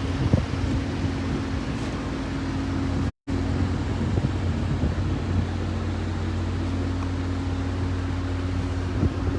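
Steady engine-like mechanical hum with a low pitched drone, broken by a brief cut-out about three seconds in.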